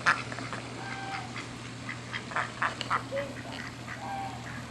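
Ducks quacking: a scatter of short, separate calls, several in quick succession in the middle, over a steady low hum.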